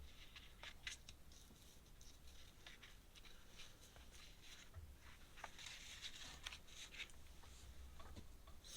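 Faint scratching of a pen on paper in short, irregular strokes, thickest for a moment a little past the middle.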